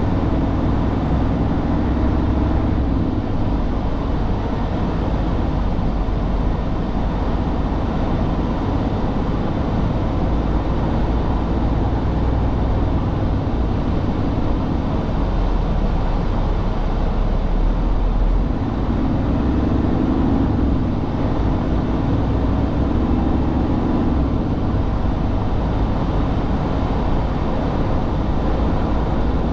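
Semi truck's diesel engine running with a steady low drone, its pitch rising and falling a little as the engine speed changes.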